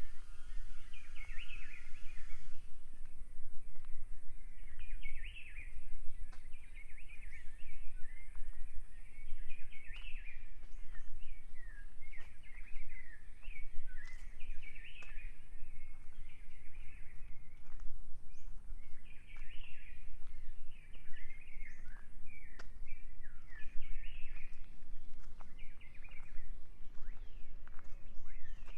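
Birds singing in short, chirpy warbling phrases repeated every second or so, over a steady low rumble.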